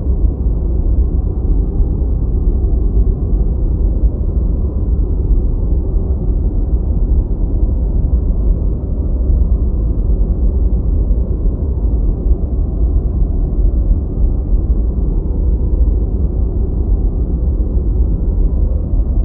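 Deep white noise: a steady, even low rushing sound, heavy in the low end with no high hiss, unchanging throughout.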